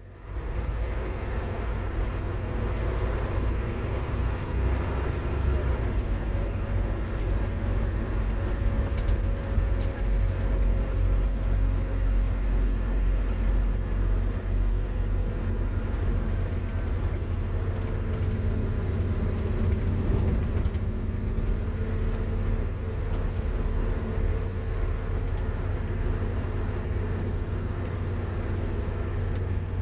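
A Scania K230UB Omnilink single-deck bus's diesel engine and running gear heard from on board while it drives: a steady deep rumble with faint engine tones that slowly rise and fall. The sound swells up just as it begins, as the bus pulls away.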